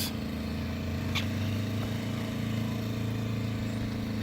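A loud generator running with a steady engine drone, its exhaust pointed towards the listener; a faint tick about a second in.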